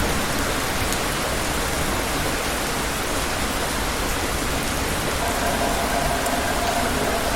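Steady heavy rain falling, an even hiss of drops on surfaces. A faint steady tone comes in about five seconds in.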